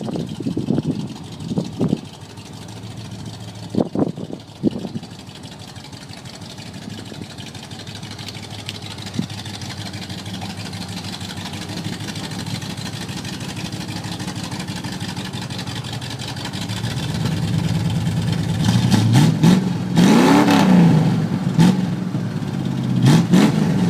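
390 V8 with headers and a mild cam running at a steady idle, then revved up several times near the end, the pitch climbing and dropping with each blip of the throttle.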